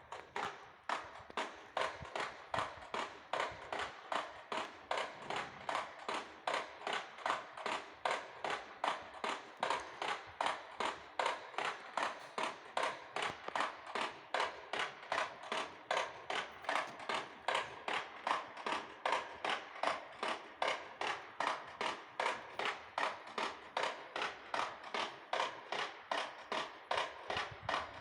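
Parish church matraca, a large wooden rattle, turning and clattering in a steady, even rhythm of about two bursts of knocks a second.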